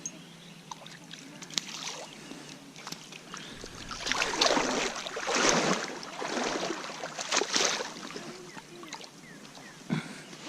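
Water splashing in a run of bursts about a second apart, a few seconds in, with a few small clicks before and a single knock near the end.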